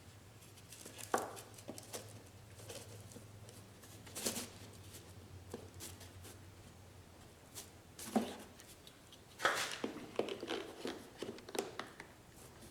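Light handling noises as small wooden parts and wax paper are moved and set down: scattered short knocks and rustles, with a busier cluster of them a little past the middle, over a steady low hum.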